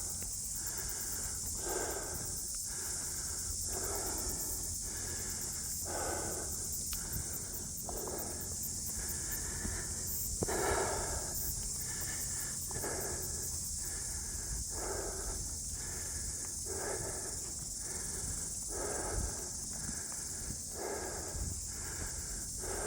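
A person breathing heavily and rhythmically, about one breath a second, over a steady high hiss.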